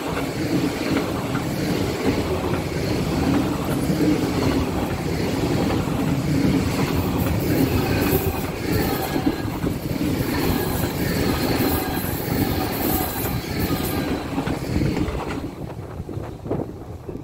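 ICE high-speed train passing close by at speed: a steady, loud rush of wheels on rails, fading about fifteen seconds in as the last car goes by.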